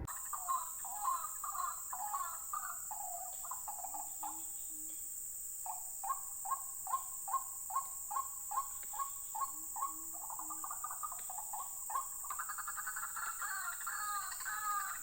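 White-breasted waterhens calling, a long series of repeated croaking calls about two to three a second that turns faster and denser about three-quarters of the way through. Three short low hoots sound in between, over a steady high hiss.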